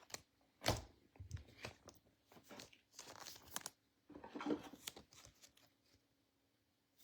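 Faint, scattered plastic rustles and light clicks of trading cards being slipped into soft plastic sleeves and rigid top loaders.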